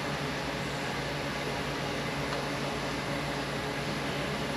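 Steady machine hum with an even hiss, like a running fan or air unit, holding level throughout.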